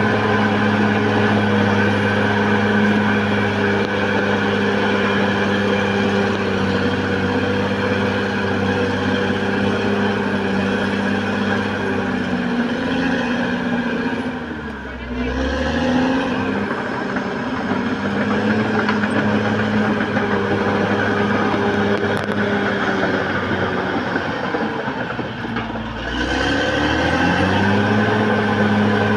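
Caterpillar D6R XL bulldozer's diesel engine running hard at steady high revs; about halfway through its speed drops sharply and climbs back, and it dips and recovers once more near the end.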